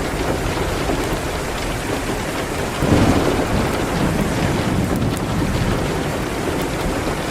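Steady rain with a roll of thunder that comes in suddenly about three seconds in and rumbles away over the next couple of seconds.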